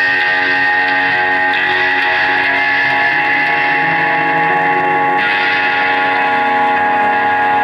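Live band playing: electric guitar chords held and ringing, with the chord shifting about five seconds in.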